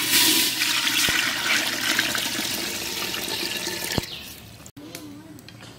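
Water poured out of a vessel in one splashing gush, strong from the start and tapering over about four seconds, ending with a knock.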